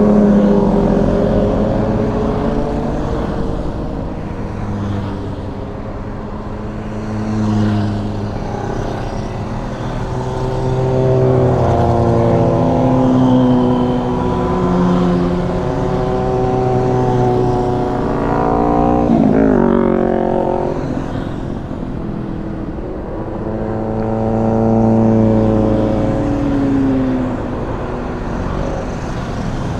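Motorcycle engines running through the gears, their pitch climbing and dropping again and again as they accelerate and shift, with one quick sharp rev about two-thirds of the way in.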